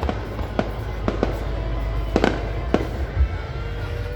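Fireworks display going off: about eight sharp bangs at irregular spacing, over a steady low rumble.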